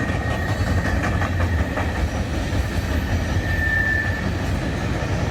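Freight train rolling past, a steady rumble of steel wheels on the rails. A brief high squeal rises over it about three and a half seconds in.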